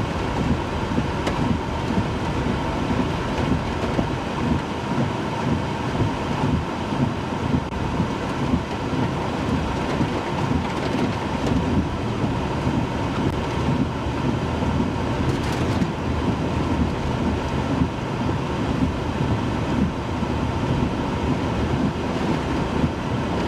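Steady, low, rumbling roar of a tornado's wind, with wind buffeting the microphone.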